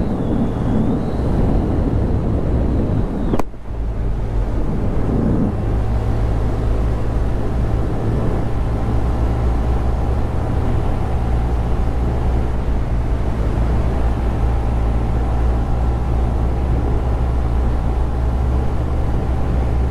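Honda Grom 125's single-cylinder four-stroke engine running steadily on the move, with road and wind noise over it. It breaks off sharply for a moment about three and a half seconds in, then carries on.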